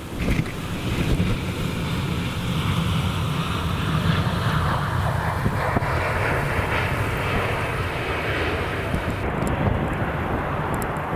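Jet airliner's engines running steadily as it passes the airfield, heard from inside a parked car.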